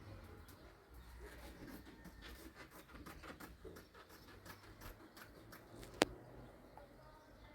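Faint, irregular clicking and tapping, with one sharp, louder click about six seconds in.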